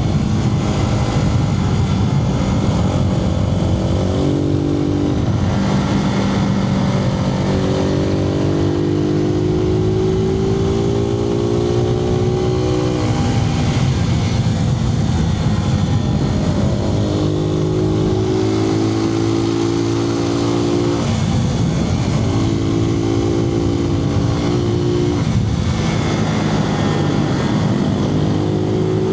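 Suzuki TU250X's single-cylinder engine under way, its pitch climbing through the revs and dropping off several times, with steady wind noise, heard from inside the rider's helmet.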